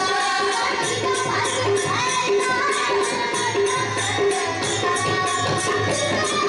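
A girls' group singing a devotional bhajan in chorus. Jingling percussion keeps a steady beat of about three strokes a second, with a drum underneath.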